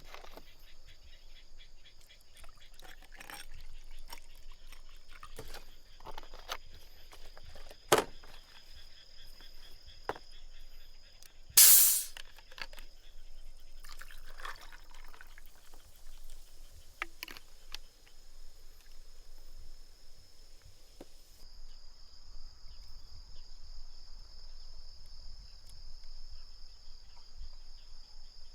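Insects trilling steadily and high-pitched, with scattered small clicks throughout, a sharp knock about 8 seconds in and a loud short hiss about 12 seconds in.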